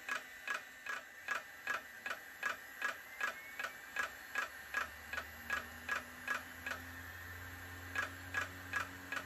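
Failing hard drive in a blueberry iMac G3 clicking over and over, about two and a half clicks a second, with a brief pause near the end; a low hum comes in about halfway through. The clicking is the sign of a bad hard drive.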